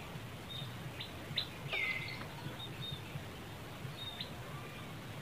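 Birds chirping in short, high notes, with one louder falling call about two seconds in, over a low, steady background rumble.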